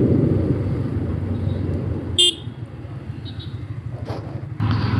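Riding noise from a Yamaha MT-15 motorcycle on the move, with a short horn toot about two seconds in; after it the noise drops.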